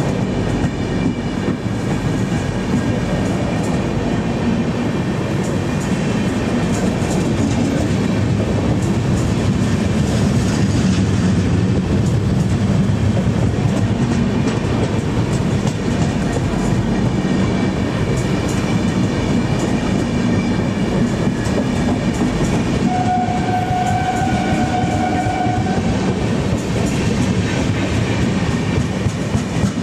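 Express train of passenger coaches running through a station at speed: a steady heavy rumble with quick clicking of wheels over the rail joints. A held tone sounds for about three seconds near the end.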